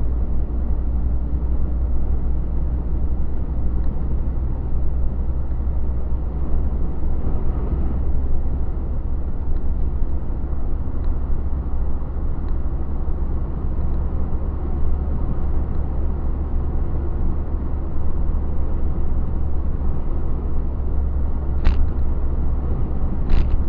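Steady low rumble of a truck's engine and road noise heard from inside the cab while driving, with two short clicks near the end.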